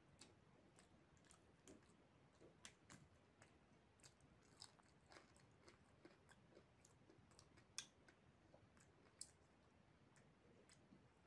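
Faint close-up eating sounds: chewing a mouthful of chicken biryani, with scattered sharp wet mouth and lip clicks at irregular intervals, two of them louder late on.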